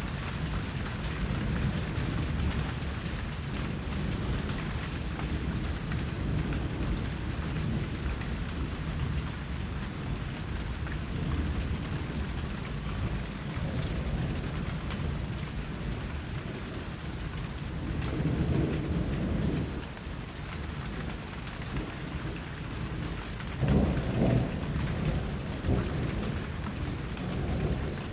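Steady rain falling, with a low rumble swelling up twice, once about two-thirds in and again for a few seconds near the end.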